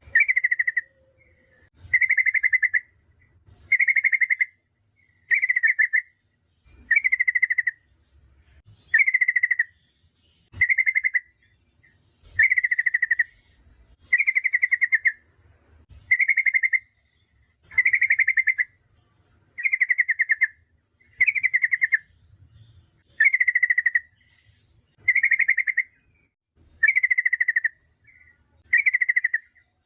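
Yellow-vented bulbul (trucukan) giving a short, buzzy chattering call over and over, about one every two seconds, with brief pauses between calls.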